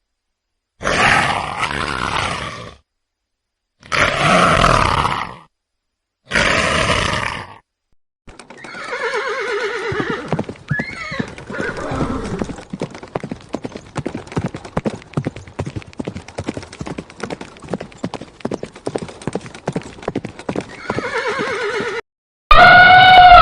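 Three short separate animal calls, then a horse whinnies with a falling call over fast, steady clip-clop of hooves; near the end a different loud, high pitched call begins.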